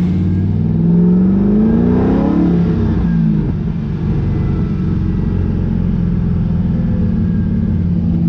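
Drift car's engine heard from inside the cabin, rising in pitch as it accelerates for about two seconds, dropping sharply about three seconds in as it shifts gear, then running steadily.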